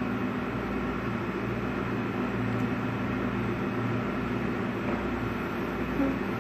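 Steady background hum and hiss with no change in level, typical of a running air conditioner or similar room machine noise.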